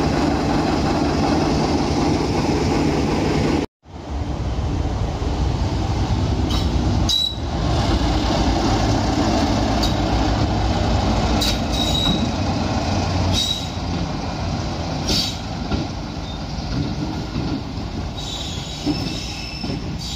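A train passing with a steady low rumble and several short high-pitched wheel squeals. The sound drops out completely for a moment about four seconds in, then carries on.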